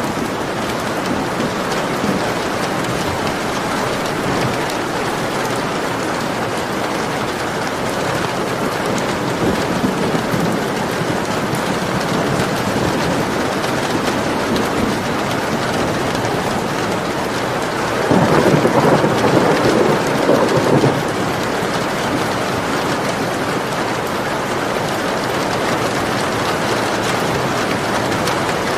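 Steady rain falling, with a rumble of thunder about two-thirds of the way in that lasts around three seconds.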